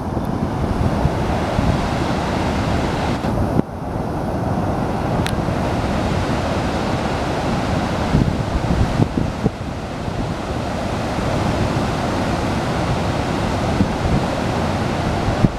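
Steady rush of river water pouring over a weir, with wind buffeting the microphone.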